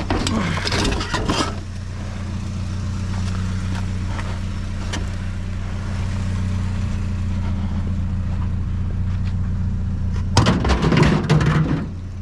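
A vehicle engine running steadily with a low hum. Over it come clatter and knocks in the first second or so, and a louder burst of clattering and knocking near the end.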